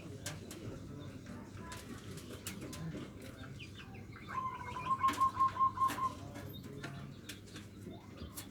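Local zebra dove (perkutut) singing its 'nutut'-style coo: about halfway through, one phrase of roughly eight quick, evenly spaced notes. Sharp ticks and faint chirps are scattered around it.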